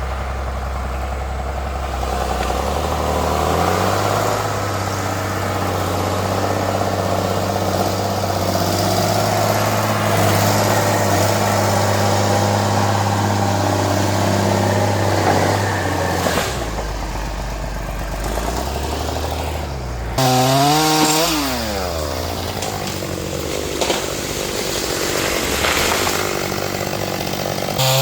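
Stihl gasoline chainsaw running, its engine note rising and falling with the throttle, with quick revs down and back up about twenty seconds in and again near the end.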